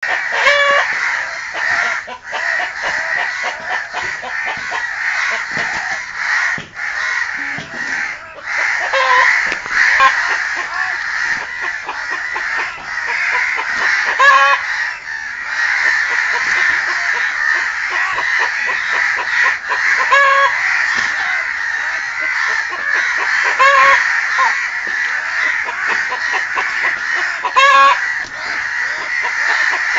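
Crows cawing repeatedly, a short harsh call every few seconds, over a constant din of chicken calls.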